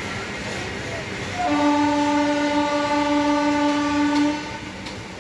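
A locomotive horn sounds one long steady blast of about three seconds, over the continuous running noise of a train.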